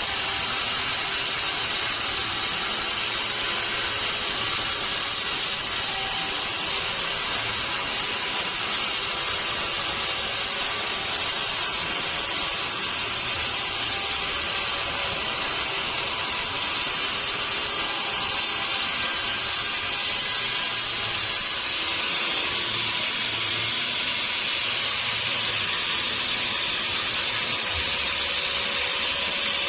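Sawmill saw running steadily through wood, an unbroken hiss weighted toward the high end.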